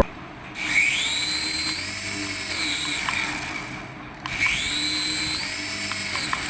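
Small electric toy motor whirring: it winds up in pitch, holds steady, then winds down, twice over.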